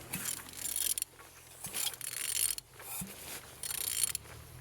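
Engine being turned over by hand, most likely with a ratchet on the crankshaft: five uneven spells of ratcheting and mechanical rasping over a low hum, as the engine is shown to turn freely.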